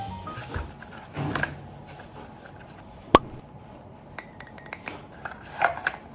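Handling sounds of glassware and utensils during matcha latte preparation: soft shuffling, then one sharp clink with a short ring about halfway through, followed by a few light ticks.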